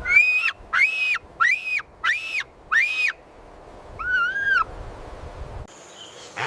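An animal calling: five short, high-pitched, evenly spaced calls, then a sixth call at a lower pitch about four seconds in.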